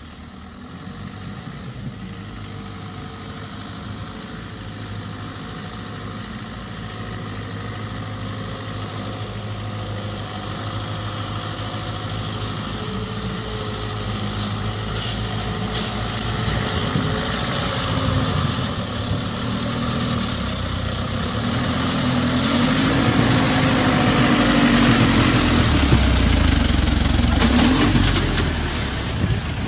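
Heavy logging truck's engine running, growing steadily louder, with its pitch rising and falling in the second half.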